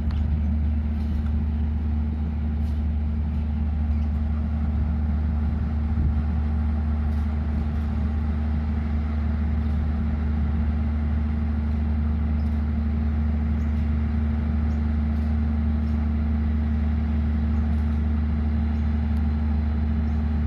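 Diesel locomotive idling at a standstill: a steady, unchanging low drone.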